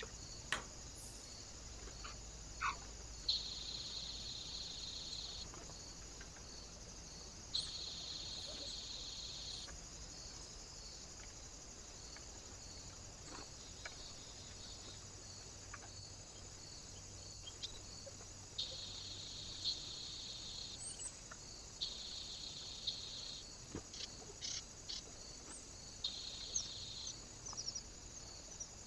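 Small birds at a feeder: several high buzzy trills of about two seconds each, and scattered sharp taps, over a faint steady high hiss.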